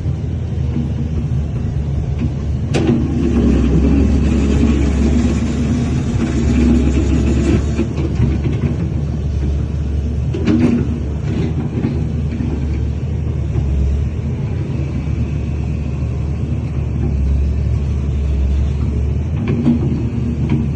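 Heavy diesel earthmoving machinery running, a steady low engine rumble, with a sharp knock about three seconds in and another about ten seconds in.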